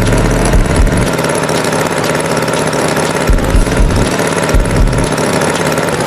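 Farm tractor engine running steadily with a rough, knocking chug and irregular deep thuds.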